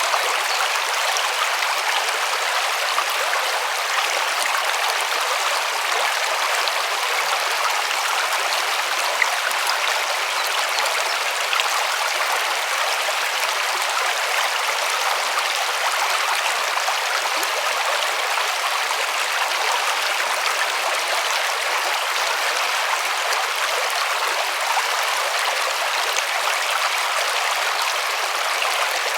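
River water running over stones, a steady rushing and splashing hiss.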